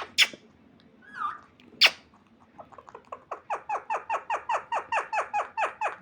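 Parrot giving a rapid run of short calls, each falling in pitch, about four or five a second and growing louder, after two sharp clicks and one brief call.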